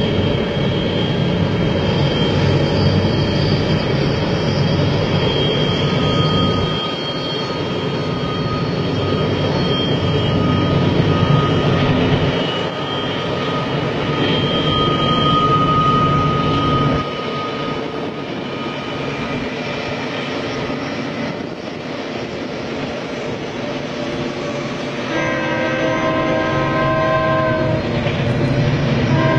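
Long freight train rumbling steadily as it rolls around a curving track, with thin high-pitched tones coming and going. In the last few seconds a multi-note train horn sounds in a few blasts.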